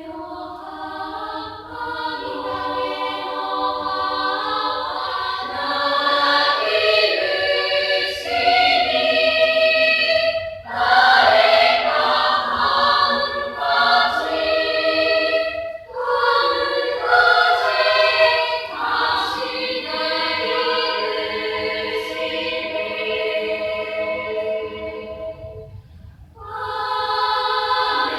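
School chorus singing in parts, holding long chords phrase after phrase, with short breaks between phrases and a brief pause near the end before the next phrase begins.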